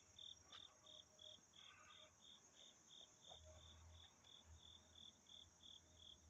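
Insects calling faintly: one chirps in short, evenly spaced pulses about three a second, over a steady high insect drone.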